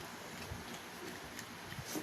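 Faint eating noises, a few small clicks of chewing and handling burger and fries, over quiet room tone.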